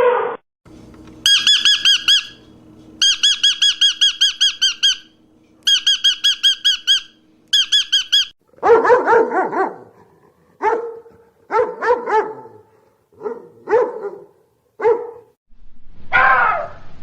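Four bursts of a rapid, high-pitched, evenly pulsed chirping trill, then a dog barking in about eight short, separate barks.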